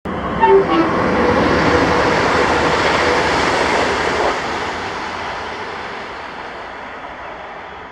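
Passenger train passing at speed, a loud rushing rumble of wheels on rail. It holds steady for the first half, then fades away as the train recedes.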